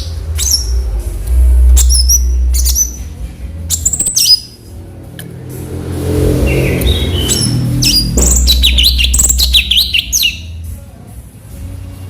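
Cucak cungkok singing: a series of sharp, short chirps and sliding whistled notes, with a fast burst of rapid chirps about eight seconds in. A steady low rumble runs underneath.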